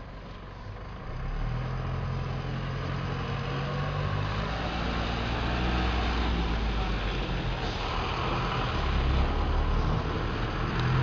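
A bus's diesel engine running close by, a steady low hum that gets louder about a second in.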